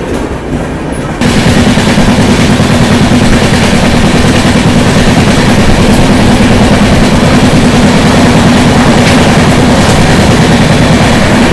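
Running noise of an Indian express train heard at an open coach door: a loud, steady rush of wheels on track and wind on the microphone. It starts abruptly about a second in, after a quieter moment.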